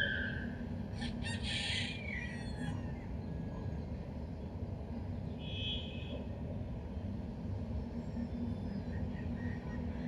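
A steady low rumble of background noise, with a short scratchy burst about a second in and a brief high chirp about six seconds in.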